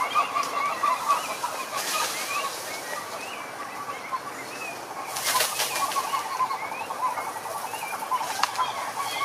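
Chorus of many frogs calling at a pond: dense, overlapping short calls, with a rapid pulsed trill joining in the second half. Two brief raspy bursts stand out, about two and five seconds in.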